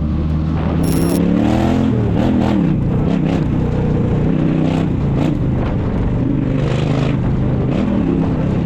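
Motorcycle engine accelerating, its pitch rising and dropping back a few times as it shifts through the gears, with steady road and wind noise.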